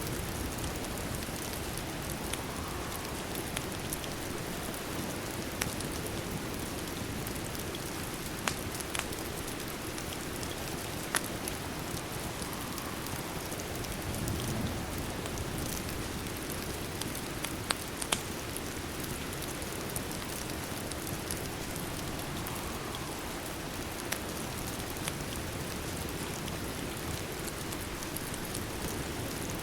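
Steady rain falling, with a few sharp, isolated pops from a crackling wood fire scattered through it.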